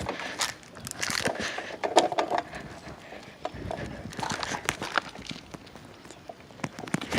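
Footsteps crunching irregularly, with scattered sharp clicks.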